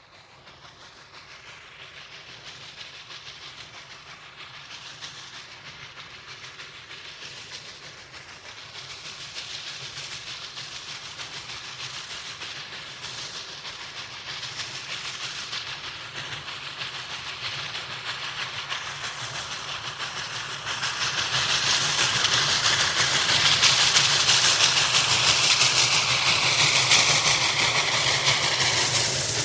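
Steam locomotive approaching and growing steadily louder, wheels clattering over the rail joints. About twenty seconds in, a loud hiss of released steam starts as it comes in, with a faint falling tone under it.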